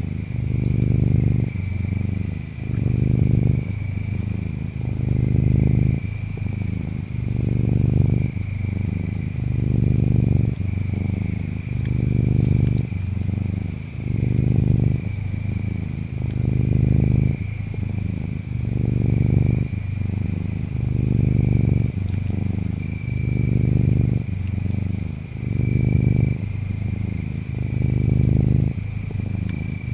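Domestic cat purring close to the microphone, a low rumble that swells and eases about every two seconds with each breath in and out. Insects chirp steadily behind it, with a thin high trill and short bursts of very high chirping every few seconds.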